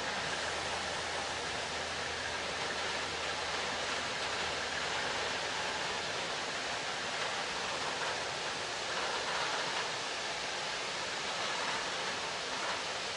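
Freight train of tank wagons rolling past, a steady noise of wheels on rails; a low hum fades out about three seconds in.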